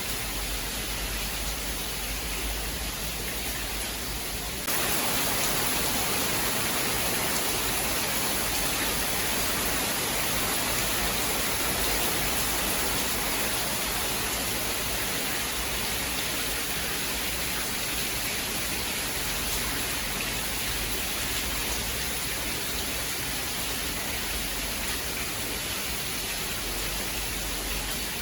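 Steady rain, an even hiss with no thunder heard. About five seconds in it jumps suddenly louder and hissier, and the deep low rumble underneath drops out until near the end.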